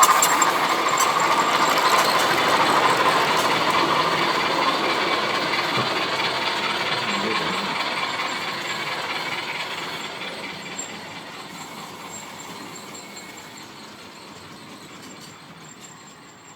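Model train running along the layout's track, a rushing running noise loudest at the start that fades steadily away over the whole stretch.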